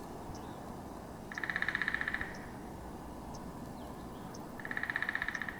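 A bird singing a short, rapid trill twice, each about a second long, over a steady outdoor hiss, with a few faint high chips between.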